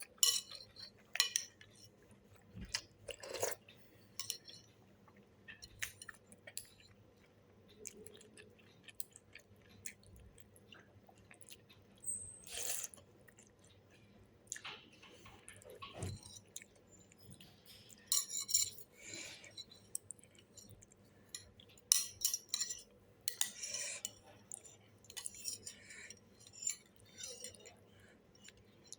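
Someone eating a bowl of beef noodle soup with beef balls: utensils clinking against the bowl, mixed with chewing. Short, irregular clicks and bursts come and go.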